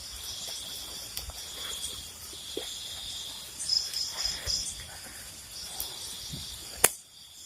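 Night insects, crickets, chirring steadily in a high continuous chorus, with a louder patch of chirps about four seconds in. A single sharp click near the end.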